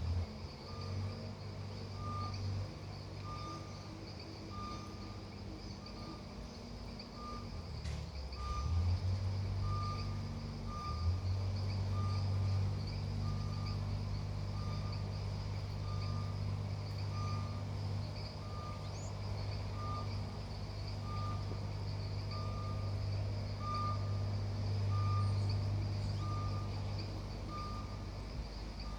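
A vehicle's reversing alarm beeping evenly, a little over once a second, over a low engine running.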